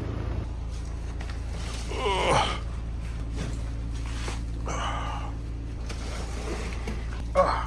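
Steady low hum of a running car, with three short breathy sounds like gasps or sighs about two, five and seven seconds in.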